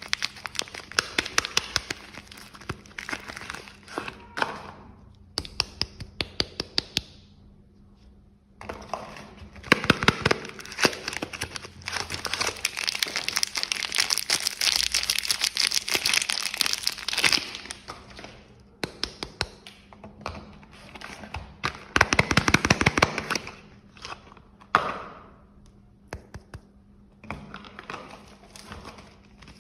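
Soap packaging being handled and unwrapped: a wrapper crinkling and rustling, with many sharp taps and clicks. The crinkling is thickest about twelve to seventeen seconds in and again around twenty-two seconds.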